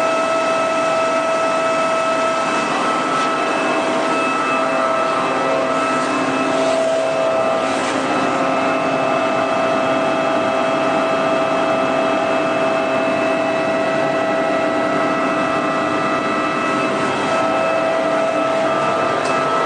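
Haas TL3B CNC lathe powered up and running, giving a steady mechanical whine made of several constant pitched tones over a hum.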